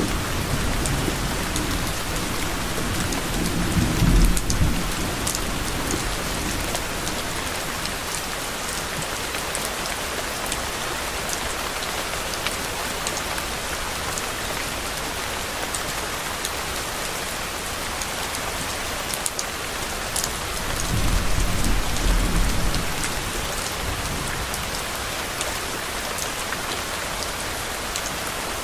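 Steady rain pattering with fine drop ticks throughout, with low thunder rumbling twice: about four seconds in and again around twenty-one seconds, each fading after a couple of seconds.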